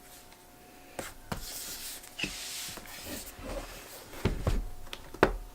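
Handling noises on a work surface: a string of light knocks and clunks with a stretch of rubbing and sliding in between, ending in the loudest sharp knock.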